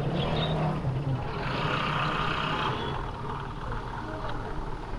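A motor vehicle passing close by, its engine and road noise steady and growing loudest about two seconds in.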